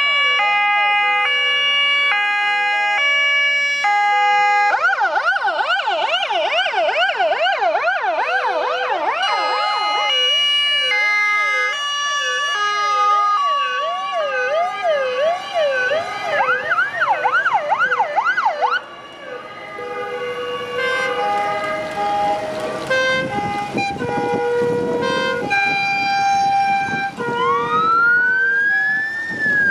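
Several fire engines sounding their sirens at once: two-tone hi-lo sirens alternating steadily, joined in the middle by fast yelp sirens sweeping up and down. Near the end a siren winds up in pitch and falls away.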